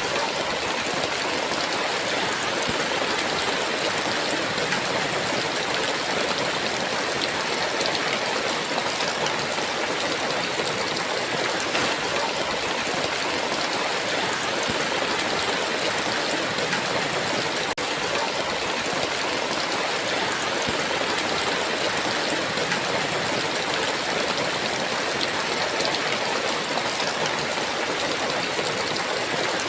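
Heavy rain falling in a steady, even downpour, with one momentary dropout partway through.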